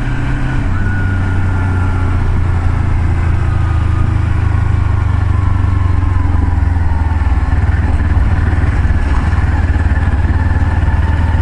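A moving vehicle on the road: a steady, loud, low engine and road rumble, with a faint whine slowly shifting in pitch.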